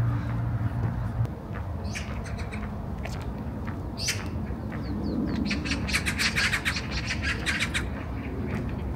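Birds calling: scattered short calls, then a rapid run of calls about five and a half seconds in that goes on for about two and a half seconds.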